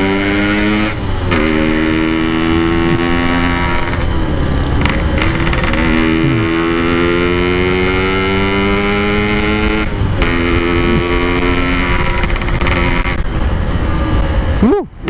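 Yamaha RX-King's 135 cc single-cylinder two-stroke engine pulling on the move through an aftermarket side-exit exhaust. Its pitch climbs steadily and drops back at each upshift, about every three to four seconds.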